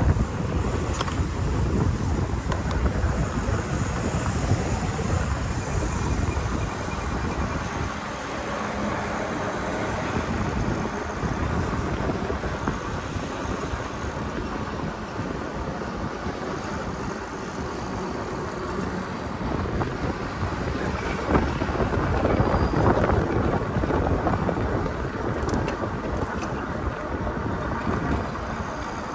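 Wind buffeting the microphone of a camera carried on a moving bicycle: a steady low rumble and rush that ebbs and swells.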